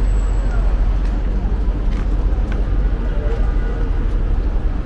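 Street ambience: a steady low rumble of traffic noise, with faint voices in the background.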